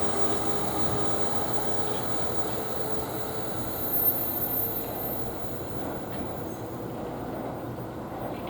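NJ Transit commuter train rolling along the rails, its sound fading steadily as it moves away, with a thin high squeal and a brief rise about four seconds in.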